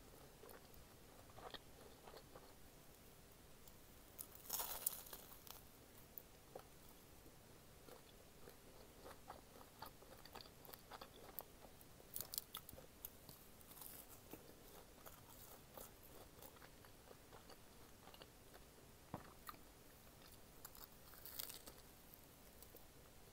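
Faint close-up eating sounds: biting and chewing fried rice-cake and sausage snacks coated in Bburinkle cheese seasoning, with scattered small crunches and mouth clicks. Louder crunchy bites come about five seconds in, around twelve seconds and near the end.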